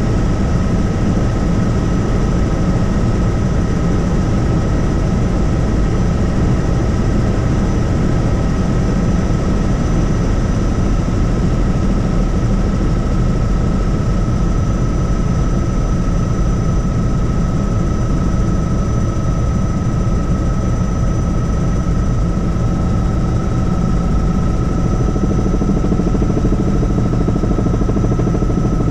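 Helicopter in flight: a steady, loud low rumble of rotor and engine with a thin steady whine above it.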